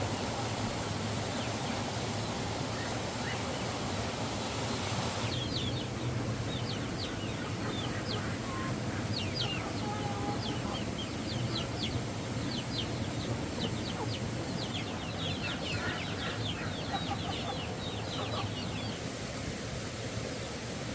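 Chickens calling, with many short, high peeps from about five seconds in, over a steady rushing background noise.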